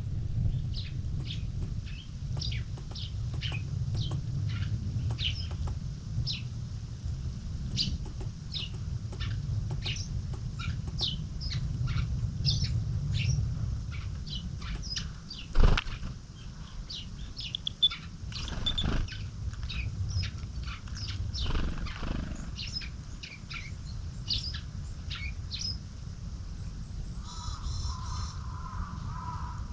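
Small wild songbirds calling over and over in short high chirps. A few louder wing flutters or bumps come about halfway through, over a steady low rumble.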